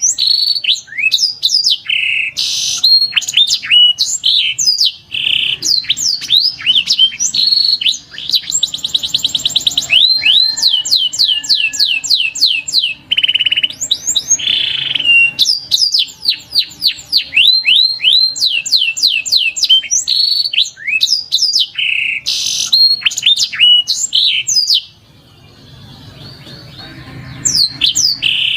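Domestic canary singing a long, loud song of rapid rising chirps and trills, with a fast, even roll about nine seconds in. The song breaks off about 25 seconds in and starts again a few seconds later.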